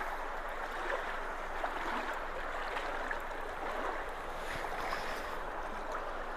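Creek water rushing steadily through a road culvert that has just been cleared of debris and is flowing freely again.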